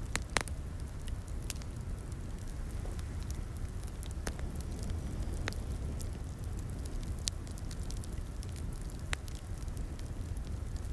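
Crackling wood fire in a fireplace: a steady low rumble of the flames with sharp irregular pops and snaps of burning wood.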